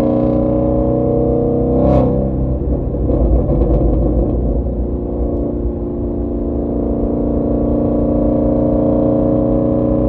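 2017 Shelby GT350's 5.2-litre flat-plane-crank V8 running through a resonator-deleted, off-road mid-pipe exhaust with its valves open, a steady drone. About two seconds in the exhaust gives a sharp backfire pop, followed by a couple of seconds of crackling. The engine note then climbs slowly.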